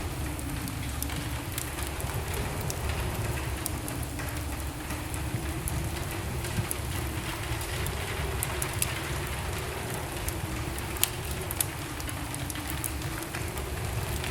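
Wood fire in a fireplace crackling steadily over a low rumble of flames, with short sharp pops scattered throughout and a couple of louder ones about eleven seconds in.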